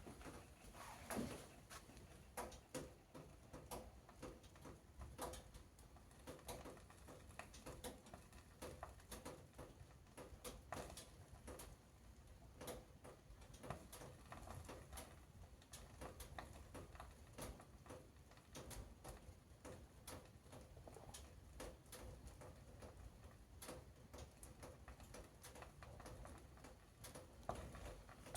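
Faint crackling of a fire in a wood-burning stove, irregular small pops and ticks as leather riding boots burn.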